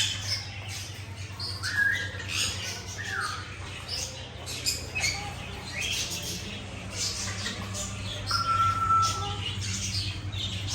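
Many caged birds chirping and squawking over one another, with a few short level whistles, over a steady low hum.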